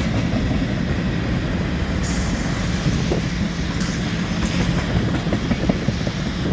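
Freight train rolling past, with a steady rumble of steel wheels on the rails and a few short clicks.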